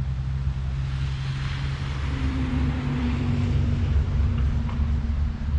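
Motor vehicle passing on a nearby road: a steady engine hum and low rumble, with tyre noise that swells through the middle.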